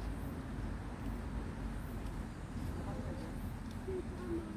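Steady low outdoor rumble with faint, distant voices.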